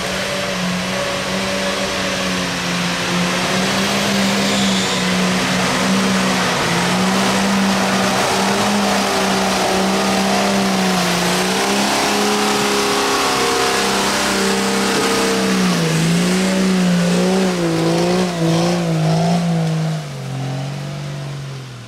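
Off-road 4x4's engine held at high revs as it climbs a steep, muddy slope, its note steady for a long stretch, then dipping and wavering over the last few seconds as the load changes.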